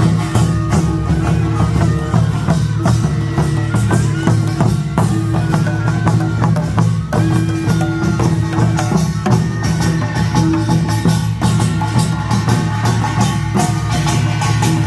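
Korean nongak farmers' band playing a fast, dense rhythm: small hand gongs (kkwaenggwari) clanging over hourglass drums (janggu), barrel drums (buk) and a large gong (jing), with no break.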